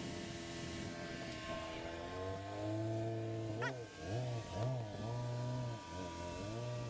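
Jeep JL Rubicon's engine pulling under load on a steep rock climb. The revs rise about two seconds in, then drop and pick back up several times as the throttle is eased off and reapplied.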